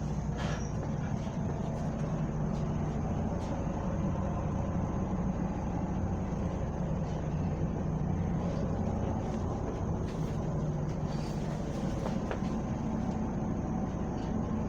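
Bus running with a steady low drone from its engine and drivetrain.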